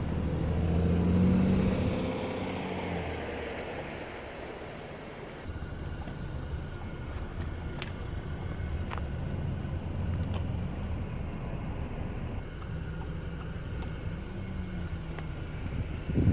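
2018 Audi A5 2.0T's turbocharged four-cylinder engine and exhaust: a brief rev about a second in that falls back, then a steady idle.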